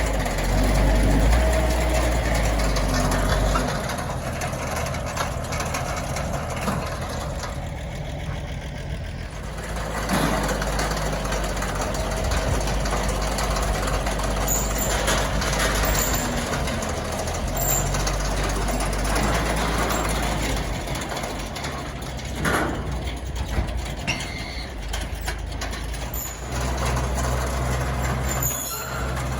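Oliver tractor engine running steadily, louder for the first few seconds and then easing off.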